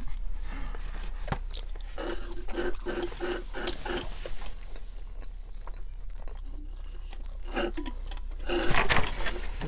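Chewing and mouth noises of someone eating fries and chicken fingers, with scattered clicks from handling a foam takeout box.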